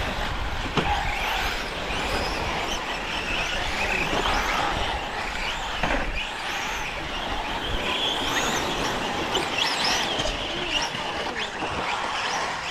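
Radio-controlled 4WD short course trucks racing on a dirt track, their motors whining up and down in pitch as they accelerate and slow, over a steady rush of noise.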